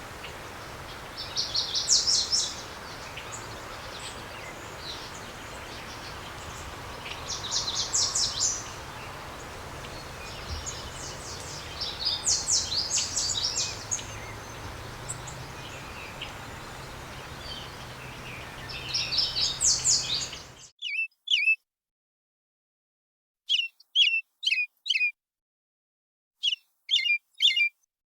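Small songbirds singing in short, rapid twittering bursts every few seconds over a steady outdoor background hiss. About two-thirds through, the background cuts out abruptly, leaving only clusters of short, sharp chirps with silence between them.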